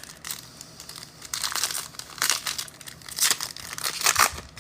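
Foil trading-card pack wrappers crinkling and tearing in irregular bursts as packs are ripped open and handled.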